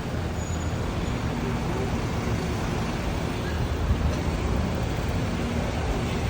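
Steady low rumble of engines and heavy machinery at a construction site, under an even hiss, with a brief louder knock about four seconds in.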